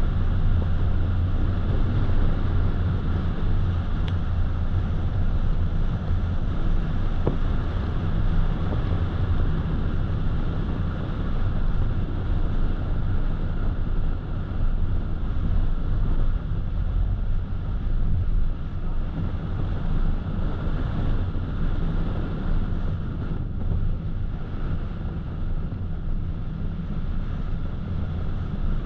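Steady road noise of a car driving: a low rumble from the tyres and engine under a fainter hiss of wind.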